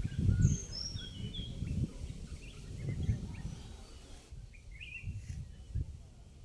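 Wind gusting against the microphone, strongest early on and easing off toward the end. Birds give short falling chirps in the first two seconds and again about five seconds in.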